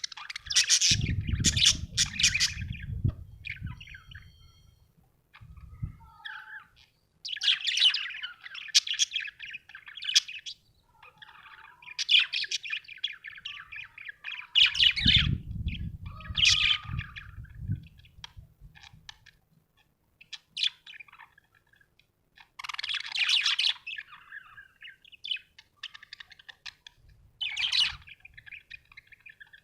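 Budgerigar chirping and warbling in bursts of rapid high chirps with short pauses between them. A low rumble sits underneath twice, early and about halfway through.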